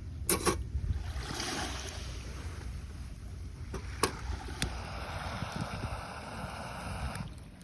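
Water washing and lapping around a kayak, with wind rumbling on the microphone. A few sharp knocks: two together right at the start, then one about four seconds in and another just after.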